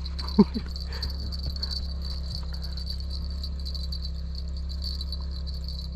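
Crickets chirping steadily, a constant high pulsing trill, over a low steady hum, with a brief voice sound about half a second in.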